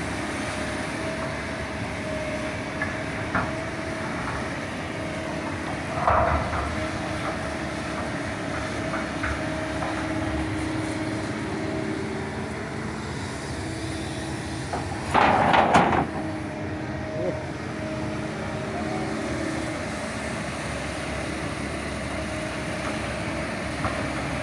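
Kobelco SK200 excavator engine running steadily while the machine moves a steel road plate. A metallic clank comes about six seconds in, and a louder clattering crash of steel lasting about a second comes a little past the middle.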